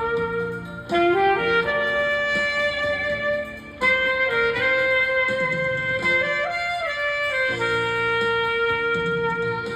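Saxophone playing a slow melody of long held notes, with short breaks between phrases.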